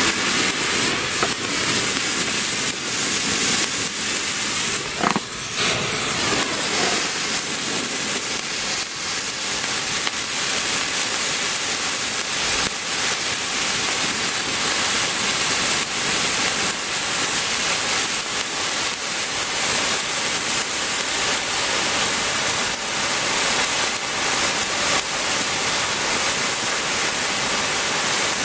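Handheld spray fireworks hissing steadily, with scattered faint crackles.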